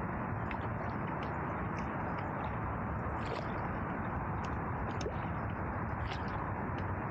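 Water noise around a canoe: a steady, even wash with scattered faint drips and small splashes at irregular moments.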